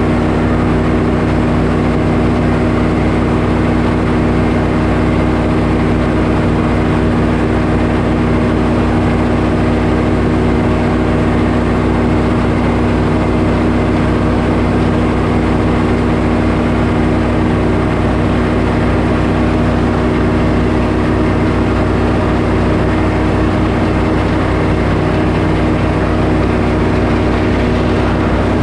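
Portable sawmill's engine running at a steady speed, with an even drone that does not change.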